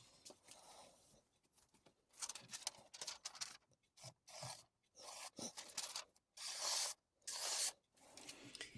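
A steel santoku blade being stroked across the wet, coarse 200-grit side of a Chroma combination whetstone, raising a burr to set a new edge. About seven short gritty scraping strokes, roughly one a second, begin about two seconds in.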